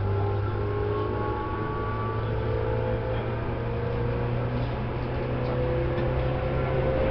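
Tobu 10000 series electric train running, its traction motors and gears whining in thin tones that rise slowly in pitch as it gathers speed, over a steady low hum.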